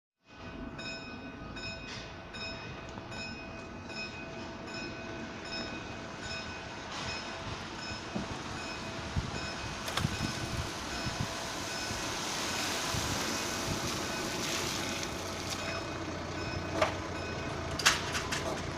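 Level crossing warning alarm sounding, a tone repeating about twice a second, with a train running through the crossing and rising to its loudest around the middle. A short squeal comes near the end.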